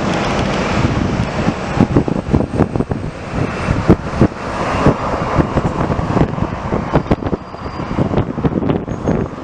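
Aircraft engine noise under heavy, gusty wind buffeting on the microphone, with many irregular low thumps throughout.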